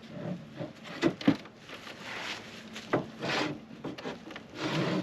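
A wooden board being slid and fitted into place: scraping rubs of wood with sharp knocks, the loudest pair a little after a second in and another near three seconds.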